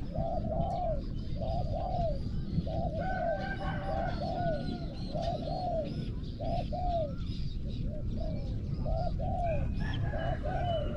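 Spotted doves cooing in a long series of short arched notes, several calls overlapping as more than one dove calls. Small birds chirp faintly higher up.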